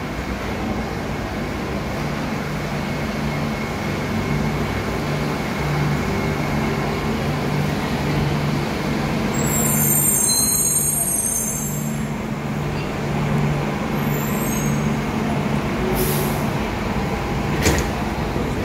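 Bombardier Innovia C801 rubber-tyred people-mover train running into the platform and slowing to a stop over a steady low hum. A brief high squeal comes about ten seconds in as it passes, and there is a sharp click near the end as its doors open.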